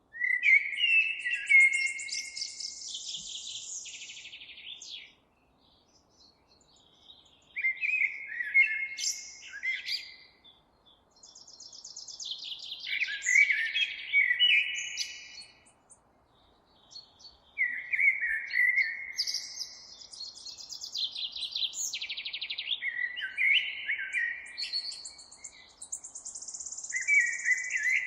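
A songbird singing a varied song in repeated phrases of several seconds each, mixing clear whistled notes with rapid high trills, separated by short pauses.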